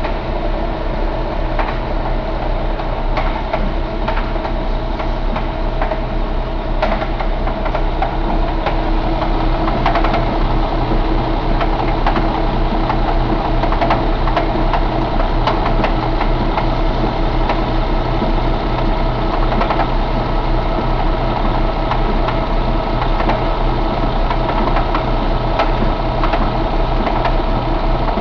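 Paccar MX13 inline-six diesel engine idling steadily, with a fast, even beat and a few faint ticks.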